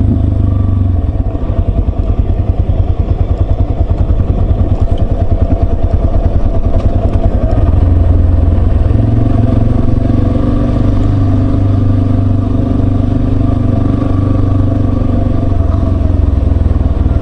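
Yamaha Serow 250's air-cooled single-cylinder engine running as the bike is ridden, with a rapid pulsing exhaust beat. The engine note eases off about a second in and picks up again around eight to nine seconds in.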